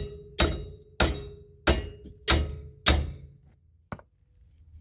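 Hammer striking metal: five hard blows about half a second apart, each leaving a brief metallic ring, then a light click. These are likely knocks at the seized wheel hub assembly to free it after its bolts came out.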